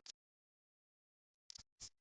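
Near silence after music cuts off, broken by two short, sharp sounds close together about one and a half seconds in.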